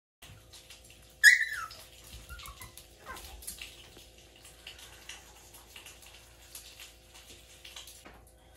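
Pomeranian puppy giving one short high yelp about a second in, falling in pitch, then two fainter whimpers over the next two seconds. A faint steady hum and light ticks run underneath.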